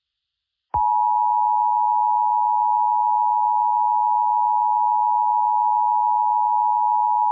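Emergency Alert System attention signal: the steady two-tone alarm of 853 and 960 Hz sounded together, starting sharply about a second in and holding at one unwavering pitch, sounded to announce an emergency alert.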